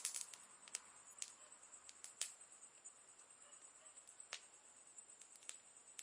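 Wood campfire crackling: faint, irregular sharp pops and snaps, the strongest at the very start and about two seconds in, over a steady high-pitched hum.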